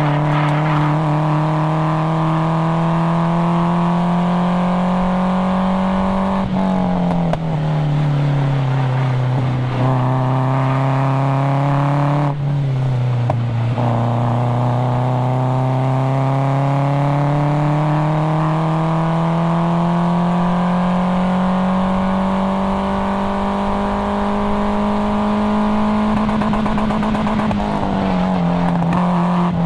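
A 1997 Nissan 240SX's 2.4-litre KA24DE four-cylinder with a cat-back exhaust, driven hard on track. Its note climbs steadily under load and drops sharply at gear changes about six and a half and thirteen seconds in, then steps down near the end.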